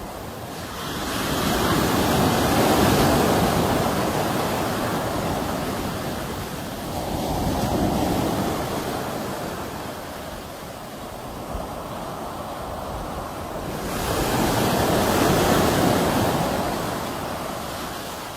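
Sea waves washing onto a shore: the surf swells and subsides in slow surges, with the loudest breakers about three seconds in and again near the end, and a softer one in between.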